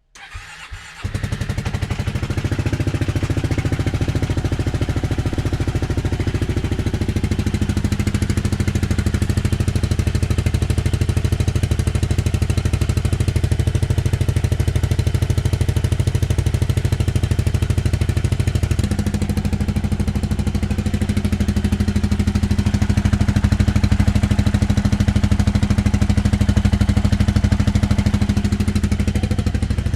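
Yamaha Majesty 400 scooter's single-cylinder four-stroke engine, through a Black Widow aftermarket exhaust, catching about a second in after a few brief clicks and then idling steadily; the idle note shifts slightly about two-thirds through.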